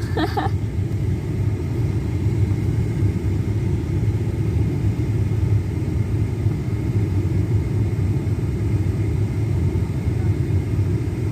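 A vehicle driving along, giving a steady low rumble of engine and road noise.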